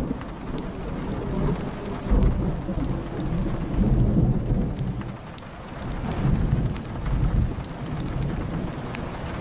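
Rolling thunder rumbling in several deep swells over steady rain pattering on a window and roof, with a few faint crackling pops from a wood fire.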